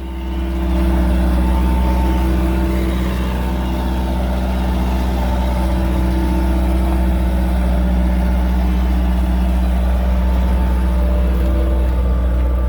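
Engine running steadily as a vehicle is slowly driven onto loading ramps; it picks up about half a second in and then holds an even, low, humming note.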